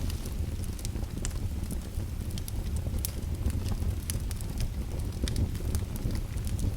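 Fireplace fire crackling, with sharp pops scattered irregularly over a steady low rumble.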